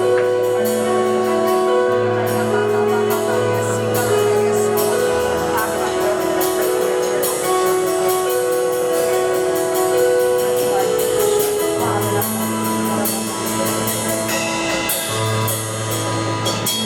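Slow worship music: held keyboard chords over a bass line that changes every second or two, with light cymbal and drum hits.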